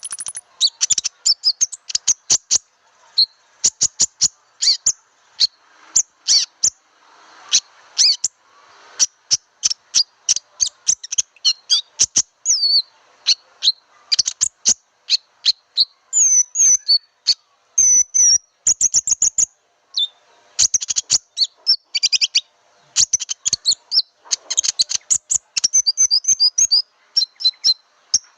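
Konin bird lure call: rapid runs of short, sharp high chirps and ticks with a few quick whistled glides in between.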